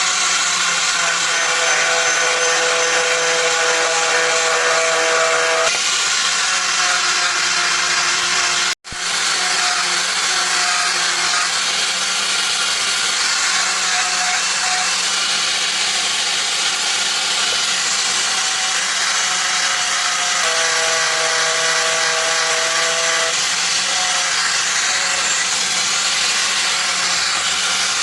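An electric power tool running steadily under load, with a few abrupt breaks and one brief dropout about a third of the way in.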